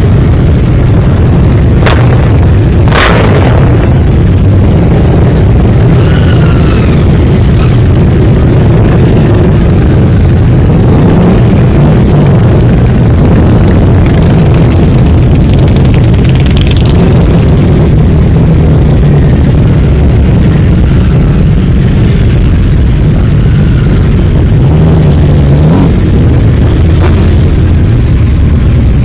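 A continuous stream of motorcycles riding past, engines revving up and down as each one passes. A few sharp cracks stand out, about two and three seconds in and again around the middle.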